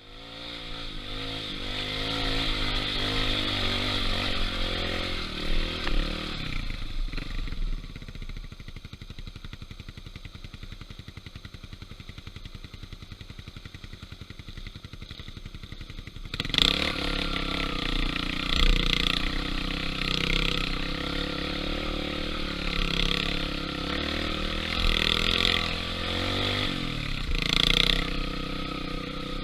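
Yamaha XTZ125 trail bike's single-cylinder four-stroke engine running under way, then dropping to a steady idle about seven seconds in. At about sixteen seconds it revs up suddenly and rides on, the revs rising and falling.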